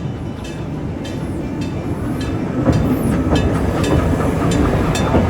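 Narrow-gauge Western River Railroad steam train rolling over an iron railway bridge: a steady rumble with rapid wheel clicks that grows louder after about two seconds, and a brief thin squeal about three seconds in.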